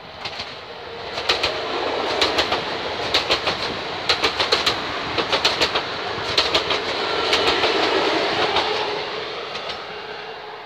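An Alstom Régiolis (Coradia Liner) multiple-unit passenger train passing at speed. Its wheels give a clickety-clack over the rail joints, in quick groups of clicks about once a second, over a steady running rumble that swells and then fades as it goes by.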